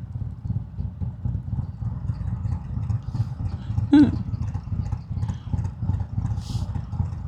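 Harley-Davidson Road King's V-twin engine running with a steady, pulsing low rumble, heard through a helmet microphone. A brief pitched sound about four seconds in.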